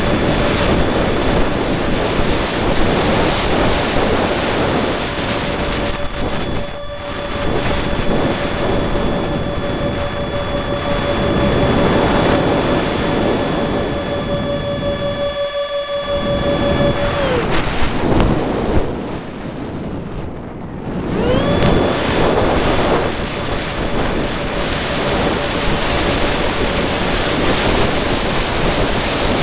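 Electric ducted-fan motor of an RC A-10 jet whining at a steady pitch under heavy wind rumble on the microphone. About 17 seconds in the whine drops away as the throttle is pulled back, then about four seconds later it spools back up to the same steady pitch.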